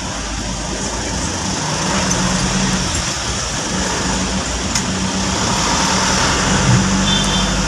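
Steady engine and road noise of a car creeping along in slow, congested traffic, a low even hum with no sudden events.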